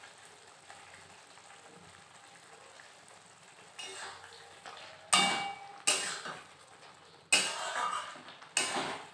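Faint sizzling of chicken cooking down in a pan, then from about four seconds in a metal spatula knocking and scraping against the pan several times as the chicken is stirred.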